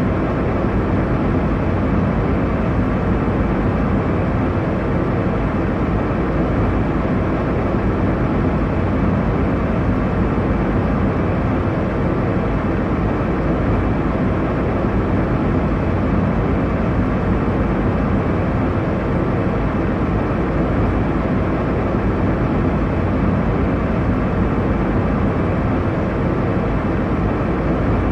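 Airliner cabin noise in cruise: a steady, even rush of engine and airflow, strongest low down and falling off in the highs.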